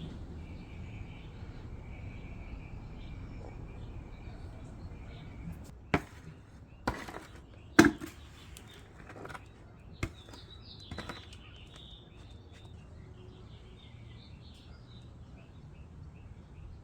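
Faint bird calls over a steady low background hum. Several sharp knocks come around the middle, the loudest about eight seconds in.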